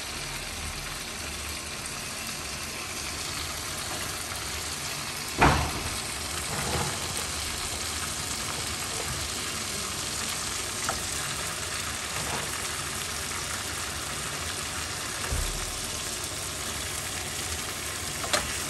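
Chicken leg pieces frying in oil with a steady sizzling hiss. A loud knock about five seconds in and a few fainter knocks later.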